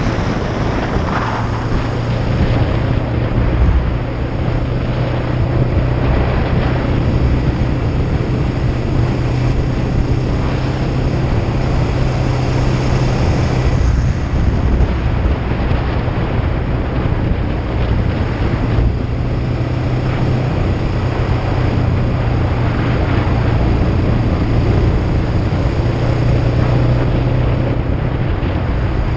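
Kawasaki Ninja 500's parallel-twin engine running steadily under way, its low engine note mixed with heavy wind noise buffeting the microphone.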